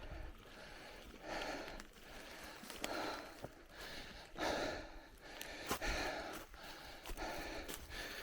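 A cyclist's heavy breathing, a hissing breath about every second and a half, with scattered small clicks and rattles from the bike on the trail.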